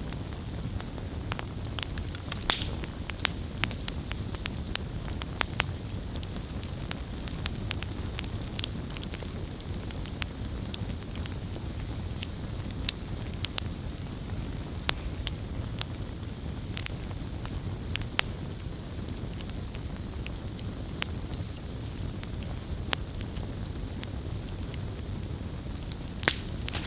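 Campfire burning with a steady low rumble under frequent sharp crackles and pops, the loudest pop coming near the end.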